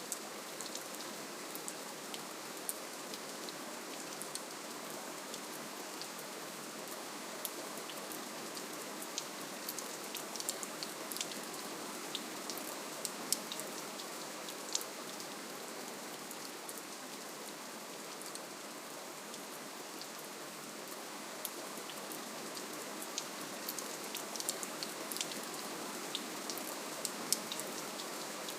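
Steady, gentle rainfall: an even hiss of rain with many small, crisp drop ticks scattered over it.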